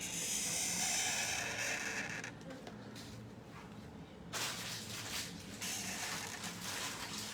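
A pen scratching across paper in drawing strokes: a long scratchy stroke at first, then a pause, then several shorter strokes from about halfway on.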